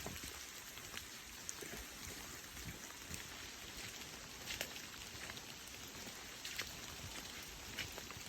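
Steady rain falling, with single drops striking close by as scattered sharp ticks.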